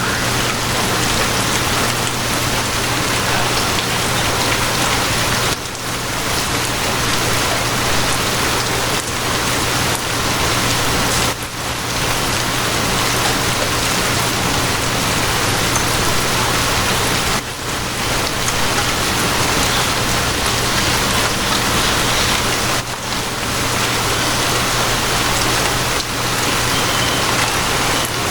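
Steady, dense rain, with a low steady hum of a train carriage underneath. The whole sound dips briefly about every six seconds.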